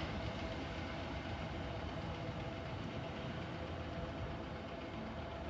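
Southeastern Class 375 Electrostar electric train pulling out of the station: a steady rumble with a thin motor hum that slowly fades as it draws away.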